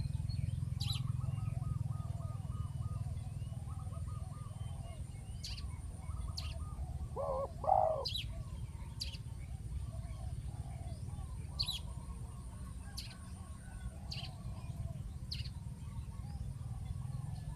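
Spotted doves cooing over and over, with one louder call about seven seconds in, over a steady low rumble and scattered high chirps.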